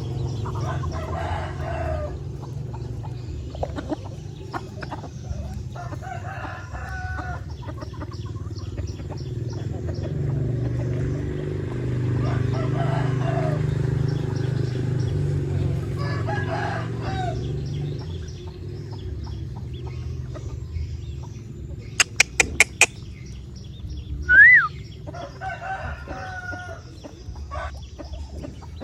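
Chickens clucking with roosters crowing several times, over a steady low hum that fades about two-thirds of the way through. Near the end there are four sharp clicks, then a short, loud squeak that rises and falls.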